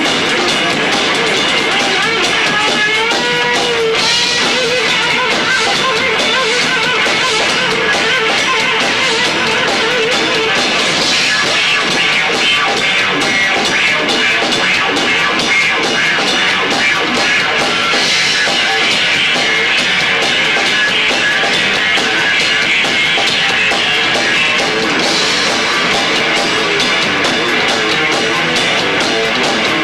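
Live rock band playing loud and fast: electric guitar, bass and two drummers' kits pounding with a constant cymbal wash, and a guitar bending a note about three seconds in. The sound is thin and harsh with little bass, recorded through a 1990s camcorder's built-in microphone.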